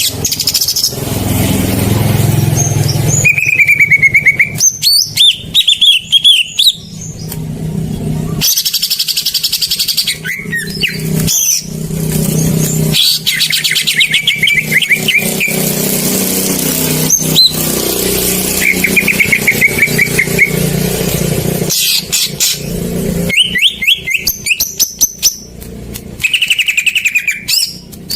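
Green leafbird (cucak ijo) song played as a lure: short bursts of rapid chattering trills recurring every few seconds, over a loud, noisy background with a low rumble.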